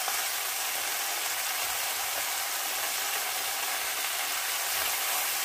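Aubergine slices frying in a pan, a steady sizzle.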